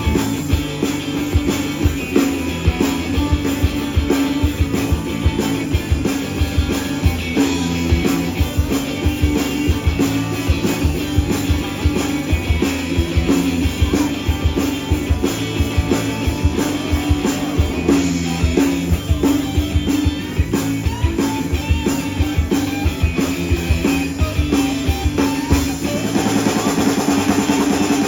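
Live blues-rock band playing an instrumental passage, with a drum kit keeping a steady beat under electric guitar.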